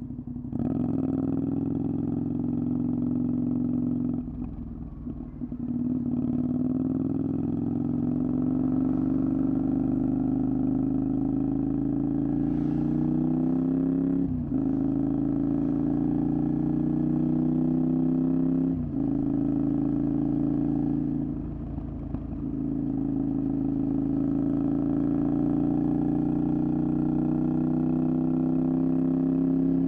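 Honda VTR250's 250 cc V-twin engine through a Moriwaki exhaust, accelerating under load: the engine note climbs steadily in pitch, then drops sharply at each upshift, about 14 and 19 seconds in. There are brief quieter throttle lifts, the first a few seconds in and another past the twenty-second mark.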